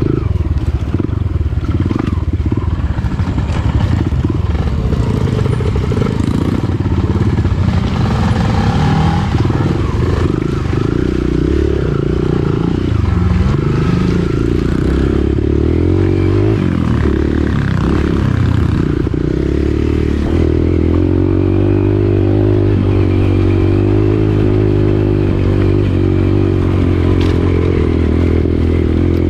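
Dirt bike engine running under riding load, its revs rising and falling through most of the stretch, then holding a steadier pitch over the last third.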